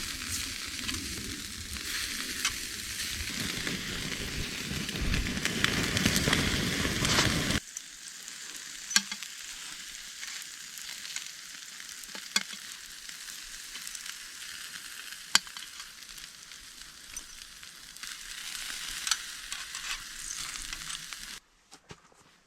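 Food sizzling and frying in a pan, with scattered pops. It drops abruptly to a quieter sizzle about eight seconds in, then cuts off shortly before the end.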